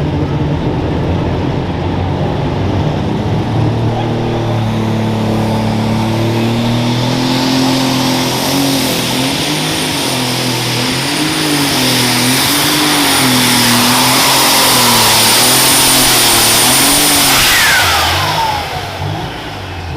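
Super stock pulling tractor engine at full throttle during a pull, its pitch climbing and then wavering up and down, with a high turbocharger whistle over it and the sound building louder. Near the end the throttle comes off: the engine drops away and the turbos whine down in falling pitch.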